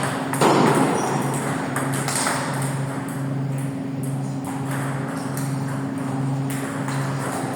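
Table tennis balls clicking off paddles and the table in a rally, with a louder knock about half a second in. A low hum pulses on and off about once a second underneath.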